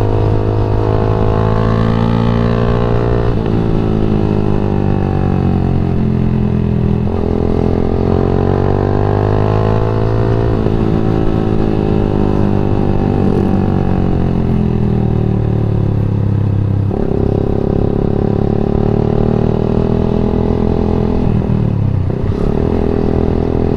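Yamaha MX King 150's single-cylinder four-stroke engine under way, its pitch climbing through the revs and dropping sharply at each upshift, about three times. Midway it eases off and the revs fall slowly before it pulls again.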